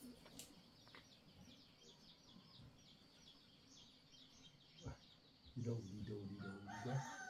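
Faint, rapid high chirping of small birds, several short notes a second, with a person's low voice coming in over the last second and a half.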